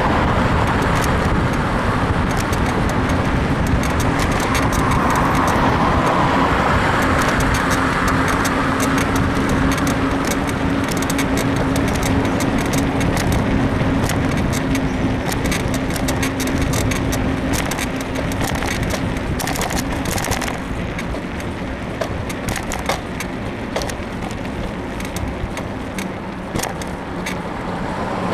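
Riding a full-suspension mountain bike: steady wind and road noise with frequent sharp clicks and creaks from the frame's suspension, which the rider puts down to a worn suspension bushing. Road traffic runs alongside, with a steady low hum through the first two-thirds.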